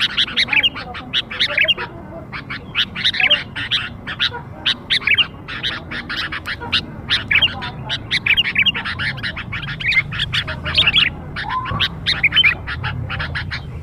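Young sooty-headed bulbul (kutilang) calls: a busy, continuous chatter of short, rapid notes, the kind of call played as a lure (pikat) to draw bulbuls in.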